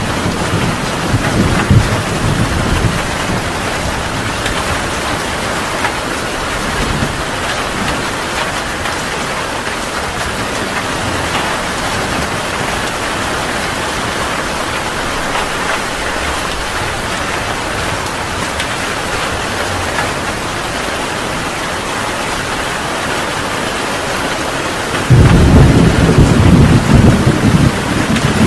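Heavy rain falling steadily in a thunderstorm. Rolling thunder at the start fades within a few seconds, and near the end a sudden loud thunderclap breaks in and rumbles on.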